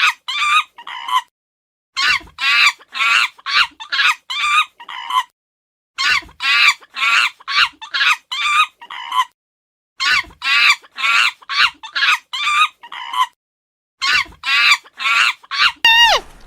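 Chicken clucking in quick runs of short calls, four runs with brief silent gaps between them.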